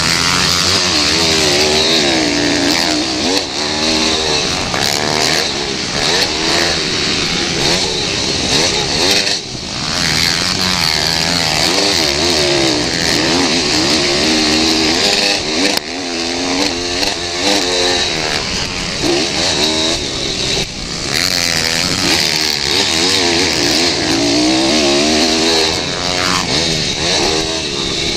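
Pit bike engines racing, revving up and down over and over as the riders accelerate, shift and brake, with more than one engine heard at once at times.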